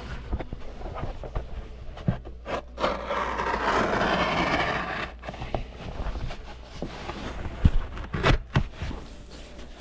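Carpet doormat being cut and handled: a rasping, scraping cut runs for about two seconds in the middle, with scattered knocks and rubbing from the carpet being moved, and a few sharper knocks near the end.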